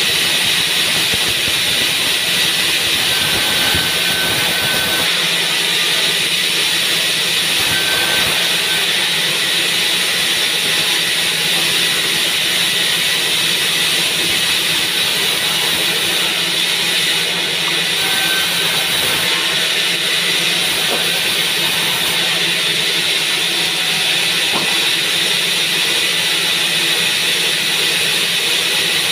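Sawmill band saw running steadily: an even, high-pitched noise with a low hum beneath it that does not change.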